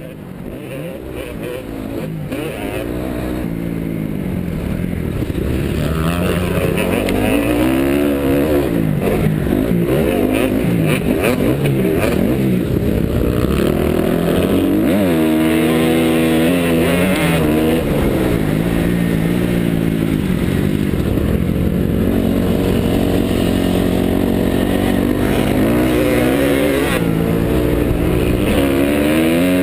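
2009 Honda CRF250R's single-cylinder four-stroke engine being ridden hard in a motocross race, the revs climbing and dropping again and again through gear changes and throttle on and off. The sound fades in over the first several seconds.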